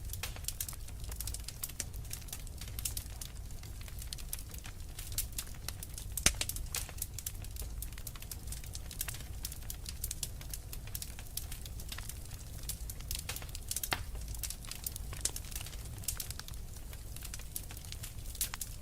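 Fire crackling in a fireplace: a dense, irregular run of small pops and snaps over a low rumble, with one louder snap about six seconds in.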